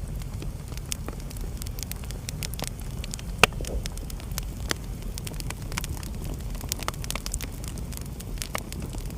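Wood fire burning in a fireplace: a steady low rumble of flame with irregular crackles and pops, one sharp pop louder than the rest about three and a half seconds in.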